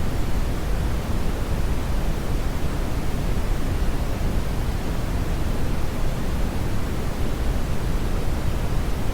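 Steady, loud brown noise: an even, unchanging hiss-like rumble with its energy weighted heavily toward the low end, like a deep waterfall roar, without any tones or events.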